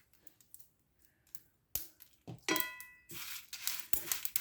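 A sharp clack, then a metal utensil striking the pan with a brief ring, followed by scraping and crackling as whole spices and curry leaves are stirred in a hot dry pan.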